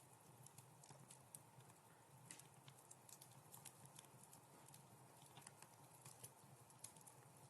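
Wood fire crackling softly in a fireplace: irregular small pops and snaps, several each second, over a faint steady low background.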